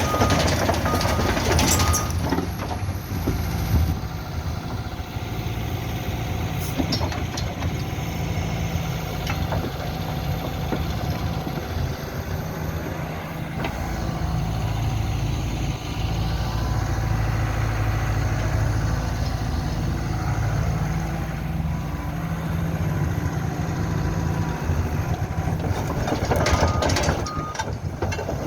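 Hyundai 140LC crawler excavator's diesel engine running steadily, with a few short knocks and clanks. The engine note shifts about fourteen seconds in.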